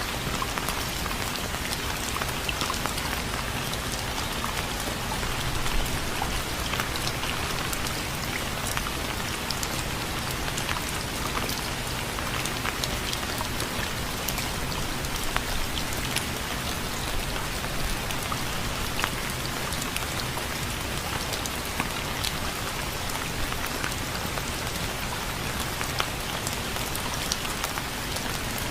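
Steady rain falling on a surface, a constant hiss with many scattered drop ticks.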